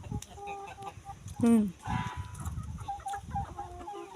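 Chickens clucking, with many short repeated clucks. About a second and a half in there is one louder call that falls steeply in pitch.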